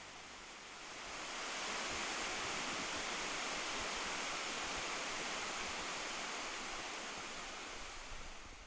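Waterfall, a steady rush of falling water that swells about a second in and holds before cutting off abruptly at the end.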